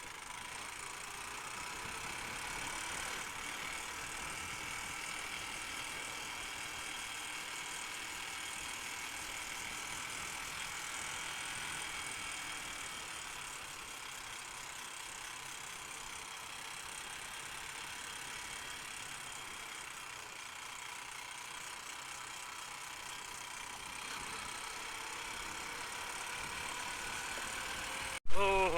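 Honda Unicorn motorcycle running steadily on the road, with a constant engine drone and road noise. It cuts off abruptly near the end.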